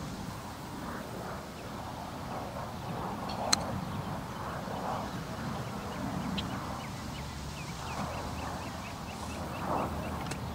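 Birds calling, with a rapid run of short, evenly repeated chirps in the second half. A single sharp click about a third of the way through is the loudest sound.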